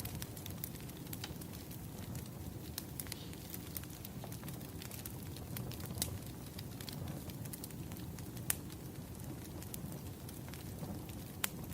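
Wood fire crackling: a steady low rumble of burning logs with irregular sharp pops and snaps.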